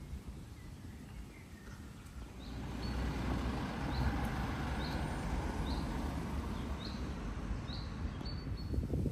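A bird repeating a short high chirp about once a second, over a steady rushing background noise that swells a couple of seconds in.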